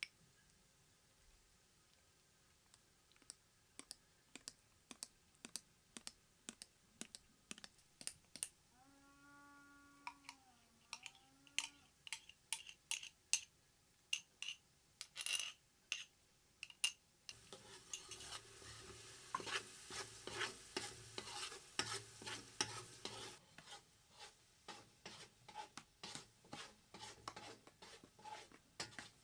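A utensil knocking and scraping against a pot or pan, about two clicks a second, with a hiss like food sizzling for several seconds in the middle. A short pitched call sounds briefly about nine seconds in.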